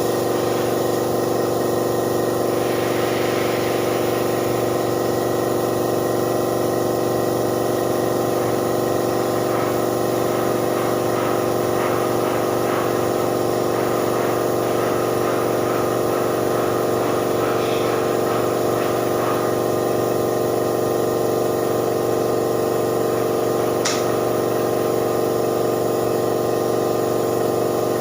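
Air compressor running steadily for paint spraying: a constant machine hum with no change in level.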